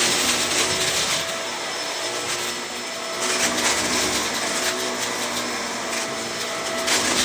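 Vacuum cleaner running steadily, a motor hum under a rushing of air that swells louder about a second in, again near the middle, and near the end.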